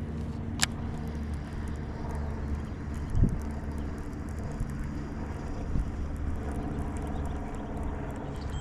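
A motor vehicle's engine running steadily nearby as a low hum, with a sharp click about half a second in and a dull thump about three seconds in.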